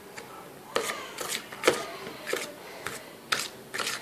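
Homemade shampoo-and-salt slime being poked and folded by hand: a string of short, irregular clicks and pops, about nine in all.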